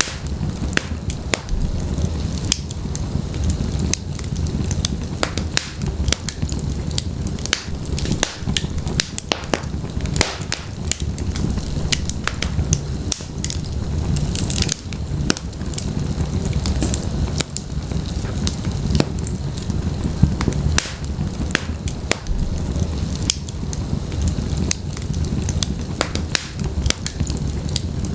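Wood logs burning in a fireplace: frequent sharp crackles and pops over a steady low rumble of the flames.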